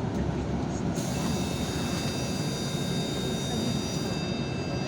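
Interior noise of a Yutong ZK6128HG city bus under way: steady engine and road noise, joined about a second in by a steady high-pitched whine that stops near the end.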